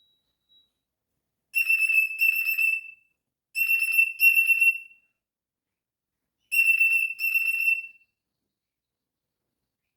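Cockatiel giving three loud whistled calls, each two short steady notes of the same pitch with a buzzy edge, about a second or two apart.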